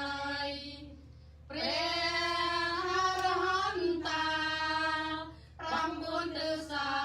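A high voice singing a Khmer Buddhist devotional chant in long held, gliding notes, pausing briefly about a second in and again near the end.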